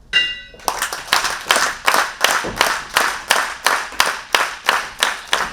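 Audience clapping in unison in a steady rhythm, about three claps a second, starting just under a second in.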